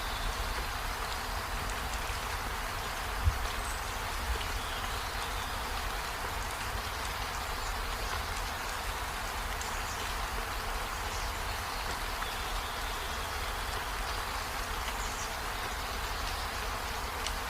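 Steady, even rain, with a single low thump about three seconds in.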